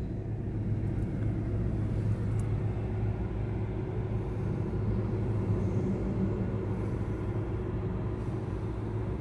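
Car idling, heard from inside the cabin: a steady low hum.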